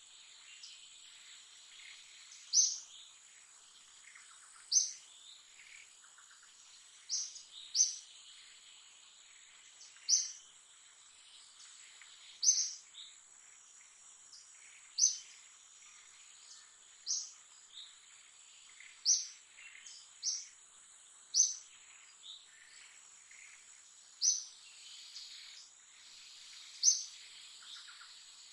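Short, sharp bird chirps repeating about every two seconds over a steady, high-pitched insect drone.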